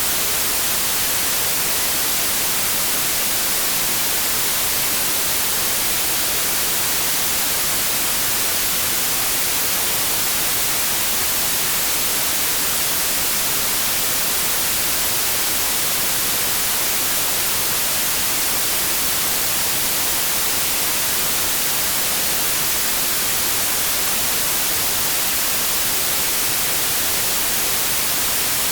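Steady white noise: an even, unchanging hiss across all pitches, with no tones, breaks or events.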